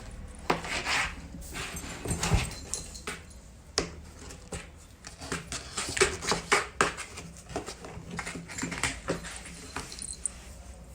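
A young pet animal making short calls, among many scattered clicks and taps.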